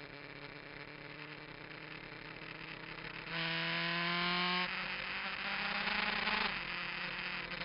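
Kawasaki GPZ900R's inline-four engine running under way. About three seconds in the throttle opens and the note jumps louder and climbs slightly in pitch, surges again briefly, then drops back near the end.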